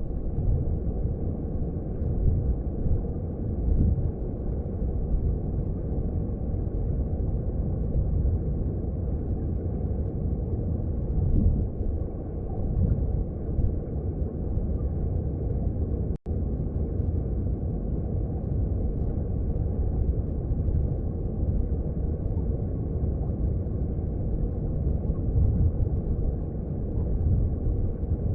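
Mountain stream heard underwater: a steady, muffled low rumble of flowing water, with a split-second dropout about halfway through.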